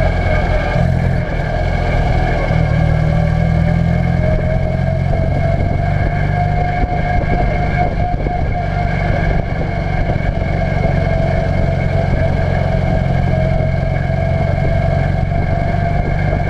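Ministox race car engine heard from inside the cockpit, running hard under racing load. The revs sag slightly a couple of seconds in and climb back a few seconds later.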